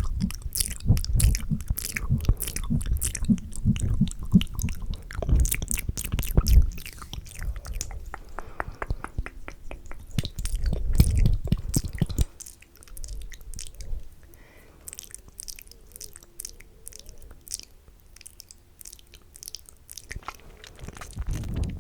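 ASMR mouth sounds close to the microphone: fast, wet clicks and smacks with low thumps. The sounds are dense for about the first half, thin out to sparse clicks, then pick up again near the end.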